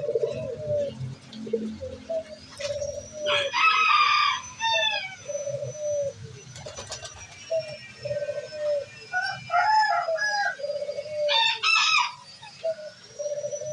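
Pigeons cooing over and over in short low phrases, with a rooster crowing loudly about three and a half seconds in and other bird calls later on.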